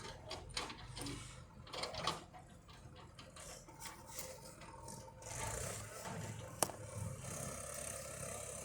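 Tractor engine running with a low rumble, with scattered rattles and clicks and one sharp click about six and a half seconds in.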